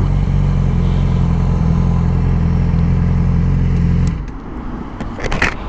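Motorcycle engine idling steadily, then switched off about four seconds in.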